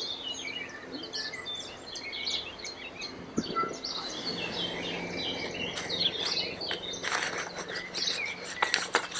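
Songbirds chirping and singing in many short, overlapping calls, with a few brief rustles near the end.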